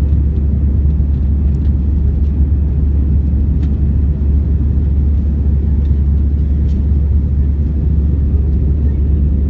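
Airbus A321 airliner's engines and airflow: a steady low rumble with no change in pitch or level.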